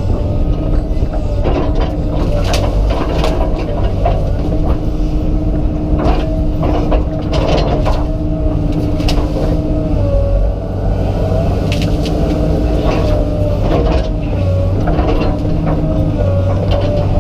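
Komatsu PC200 excavator's diesel engine running steadily under load, its pitch wavering slightly, with repeated sharp cracks and snaps of wood as tree limbs break.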